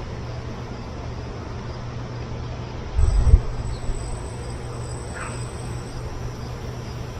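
A single dull thump about three seconds in, over a steady low hum, with faint insect sounds and a thin high tone in the middle.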